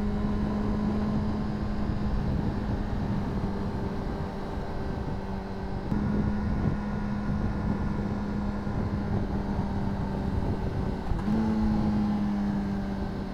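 Honda CBR600RR inline-four engine running steadily under way, a single even drone. About 11 seconds in the pitch jumps up and then slowly sinks.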